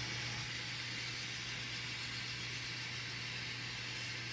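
N scale model train running, its ESU LokSound sound decoder playing a steady diesel engine drone through the locomotive's small speaker, over an even hiss.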